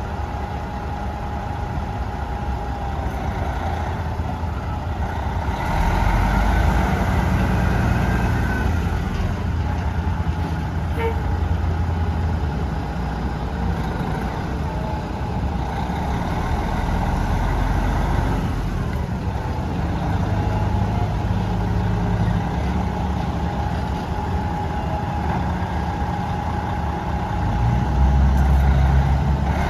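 Diesel engine of a Peterbilt 378 dump truck running, its note rising and falling a few times, louder from about six seconds in and again near the end.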